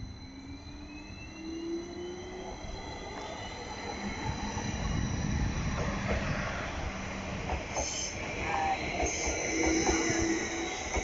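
A train running empty through the station, its rumble building, with a rising whine in the first few seconds and high-pitched wheel squeal from about eight seconds in.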